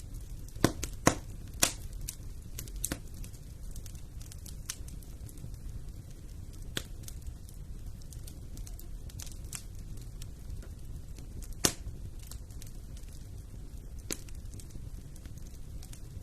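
Fire burning in a fireplace: a steady low rumble of the flames with scattered sharp crackles and pops, a cluster of loud pops in the first three seconds and another loud one about twelve seconds in.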